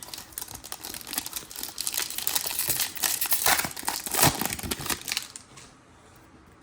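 Wrapper of a 2023 Topps baseball card pack crinkling and tearing as it is ripped open, loudest about four seconds in and stopping shortly before the end.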